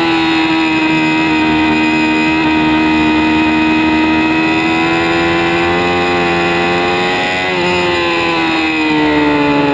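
Kawasaki ZX-6R 636 inline-four sportbike engine running hard at high revs, its pitch holding nearly steady for most of the stretch. There is a brief break in the note about three-quarters of the way through, and the pitch then falls near the end as the revs drop.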